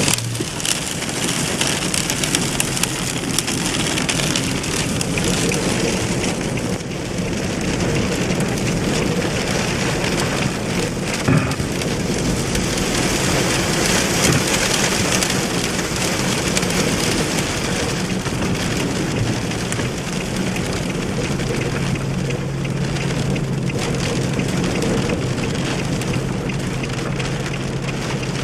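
Heavy rain from a thunderstorm pouring steadily. A low steady hum joins in about three-quarters of the way through.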